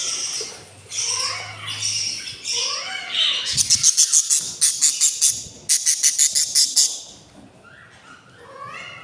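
Budgies calling: gliding chirps and squawks, then from about a third of the way in a fast run of raspy chirps, about seven a second, that stops a couple of seconds before the end.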